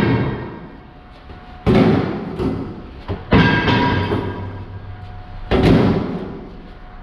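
Heavy cast-iron brake rotors being tossed onto a scrap pile. Each lands with a loud metallic clang that rings and fades, three times about two seconds apart.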